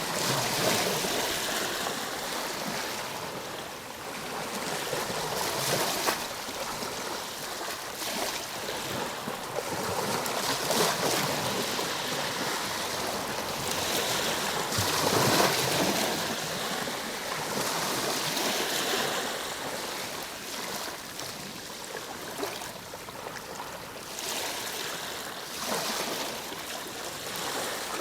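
Ocean waves breaking and washing on a shore, a continuous rush of surf that swells and eases every few seconds, with the strongest surge about halfway through.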